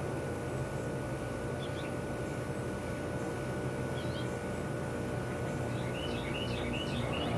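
Outdoor ambience: a steady low hum of distant traffic, with a small bird giving a few short chirps and a quicker run of chirps near the end.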